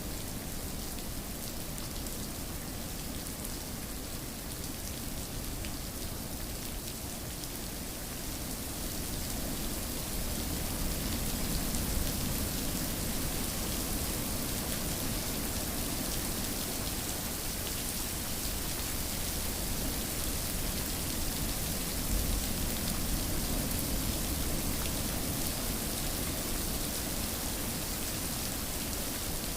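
Steady rain falling, an even hiss of drops hitting a surface, growing a little louder about a third of the way in.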